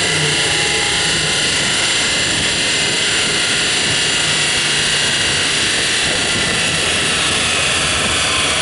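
1989 Ford Mustang's engine idling on a chassis dyno just after a pull, under a loud steady rushing noise.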